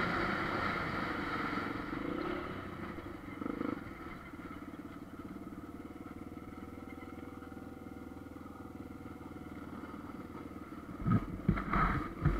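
Enduro dirt bike engine running as the rider travels along a dirt trail, louder for the first couple of seconds and then easing to a steady, quieter run. Near the end come several sharp knocks and rattles.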